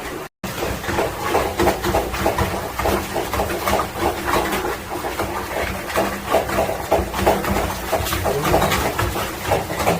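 Water and air sputtering and gurgling irregularly through boiler heating pipes during a pipe flush, over a steady low machine hum.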